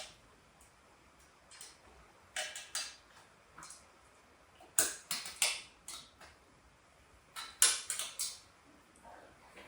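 Metal tools and parts clinking and knocking in irregular clusters of short, sharp clatters, with pauses between; the loudest cluster comes near the end.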